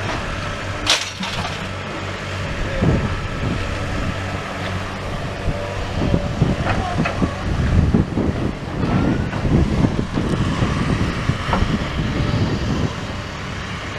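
Diesel engine of a demolition excavator running steadily, with the irregular knocks and clatter of bricks and rubble being scooped and dropped, busiest in the middle.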